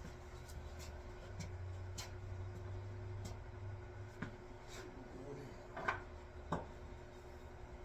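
Hand work on a wooden axe handle: faint rubbing and scraping with scattered light clicks, and two sharper knocks about six seconds in.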